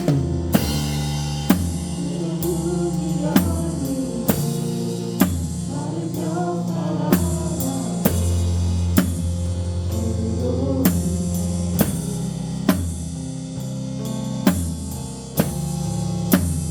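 Church praise band music with the drum kit loudest, heard close up from the drums: bass drum and snare keep a steady beat, with a sharp accented hit about once a second. Sustained low notes and chords run underneath.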